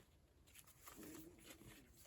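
Near silence: room tone, with a faint, slightly wavering low tone lasting about a second near the middle.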